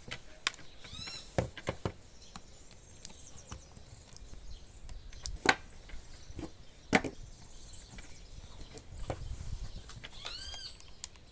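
Plastic hair dryer housing being pried open with a tool: a handful of sharp clicks and snaps as the snap-fit clips work loose. A short high-pitched animal call comes near the end.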